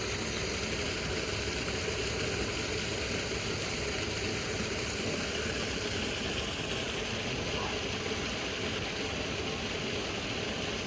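Steady, unchanging mechanical hum like an idling engine, with an even hiss over it.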